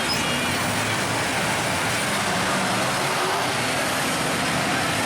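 A big mud truck's engine running steadily under an even rush of noise.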